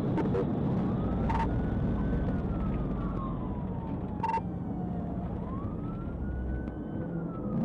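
Police car siren on a slow wail, rising and falling twice, over steady road and engine noise from the pursuing patrol car. Two short sharp blips cut in partway through.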